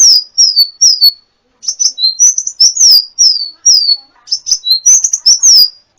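Sunbird (kolibri) singing a fast, high-pitched song of clustered sharp notes and quick downward-slurred whistles, with a short break about a second in and another near four seconds.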